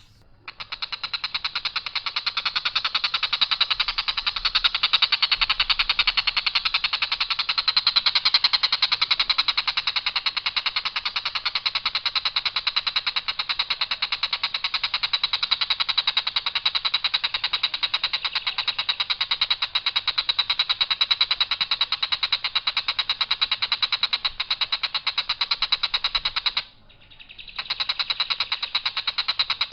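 Tengkek buto bird giving a long, harsh, rapid rattling call on one steady pitch without variation, breaking off briefly about 27 seconds in before resuming.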